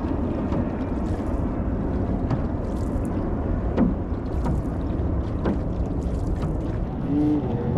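Wind buffeting the microphone over the water of an outrigger canoe outing, with water splashing and a few sharp knocks.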